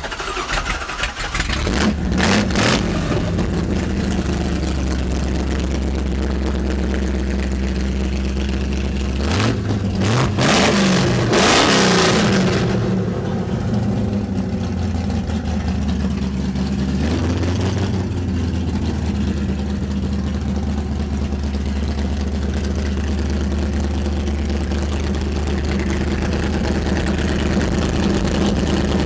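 Plymouth Satellite's engine catching just after start-up and settling into a steady, deep idle, blipped up and back down twice about ten seconds in and once more near seventeen seconds, then idling on.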